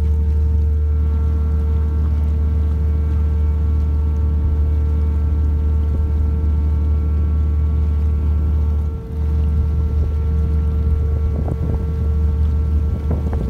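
Car ferry's engine running steadily, a loud low drone with a constant hum over it. It dips briefly about nine seconds in, and a few short knocks come near the end.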